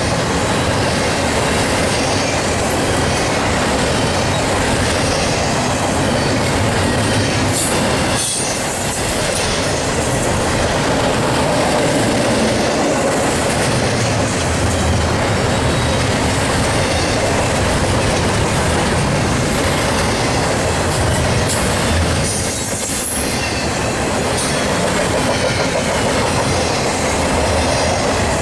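Union Pacific double-stack intermodal train rolling past at speed: a steady rumble of steel wheels on rail with clicking over the joints, dipping briefly twice, with some high wheel squeal.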